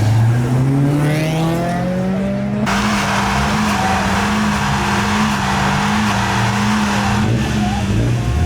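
A car's engine revs climb as it pulls away. Then the tyres break loose into a wheelspin squeal for about four and a half seconds, with the engine held at high revs, and the squeal cuts off near the end.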